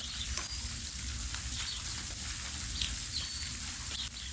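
Sparrows chirping from nearby trees, short high chirps coming every half second or so, over a steady hiss and a low rumble.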